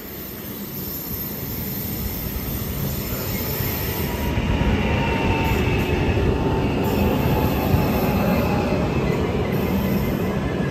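Double-deck electric regional train running into the platform and past at close range: the rumble of wheels on rail grows louder over the first four seconds and then holds steady as the carriages go by, with a faint high ringing tone from the wheels above it.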